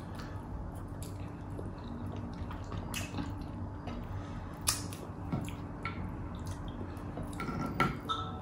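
Close-up eating sounds of pork hock and rice eaten by hand: wet chewing, lip smacks and scattered soft clicks.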